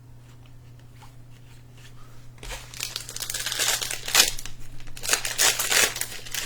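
A trading-card pack's wrapper crinkling and tearing as it is opened. It starts about two and a half seconds in, after a quiet stretch, and the crackling runs on through the rest.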